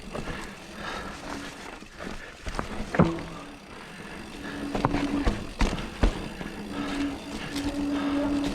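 Mountain bike descending a rough, leaf-covered trail: tyres rolling over leaves and dirt, with sharp knocks and rattles as the bike hits rocks and roots, the loudest about three seconds in. A steady buzz from the bike comes and goes in the second half.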